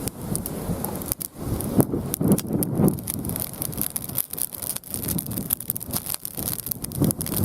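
Mixed firewood burning in a campfire stand, crackling with many irregular sharp pops over a low rushing noise.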